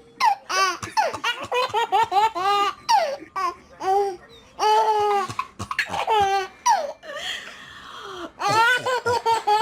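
A baby laughing hard in rapid, repeated high-pitched bursts, with a short softer, breathy stretch about seven seconds in.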